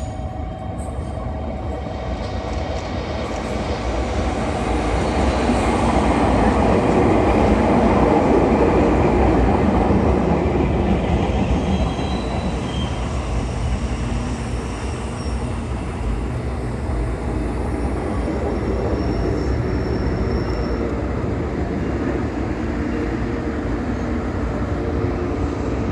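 Out-of-service train pulling into a station platform, its running noise growing to its loudest about eight seconds in and then carrying on more steadily, with a few brief, faint high wheel squeals.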